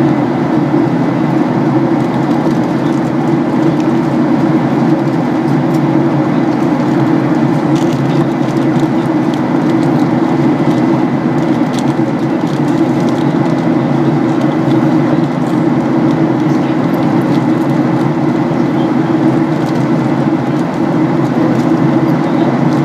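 Steady in-flight cabin noise of a Boeing 737-800: a constant low drone of its CFM56 turbofan engines and the airflow over the fuselage, with a faint steady high tone above it.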